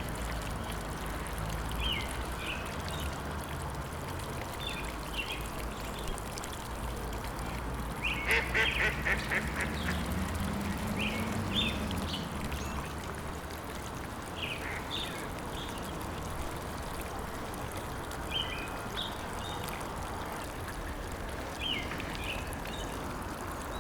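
Birds calling in short, scattered calls, with a quick run of repeated calls about eight seconds in, over a steady background hiss and low rumble.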